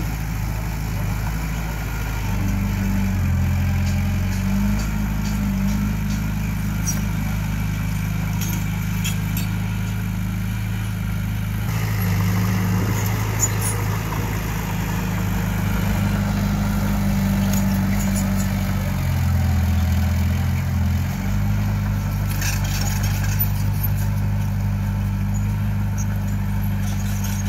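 Diesel engine of an earthmoving machine running steadily. Its note steps up and down several times as the load changes.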